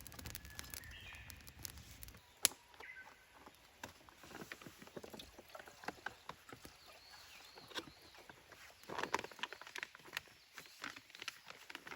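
Dry twigs snapping in irregular small cracks, with a few faint bird chirps.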